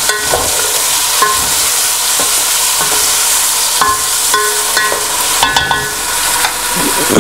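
Chicken, browned onions and tomatoes sizzling in hot oil in a cooking pot while a ladle stirs them. The ladle clinks and scrapes against the pot several times, each knock ringing briefly.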